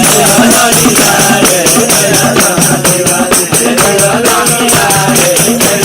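Live Nepali folk music: a steady, fast rhythm of percussion under a wavering melody line, playing without a break.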